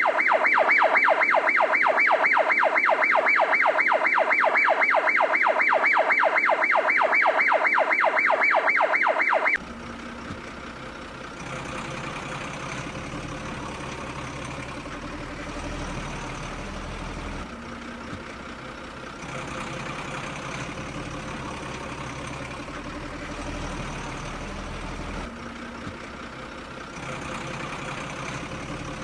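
Electronic siren sound effect from a toy vehicle: a loud, rapidly pulsing tone, about six pulses a second, that cuts off suddenly about ten seconds in. A quieter, steady engine-like rumble follows.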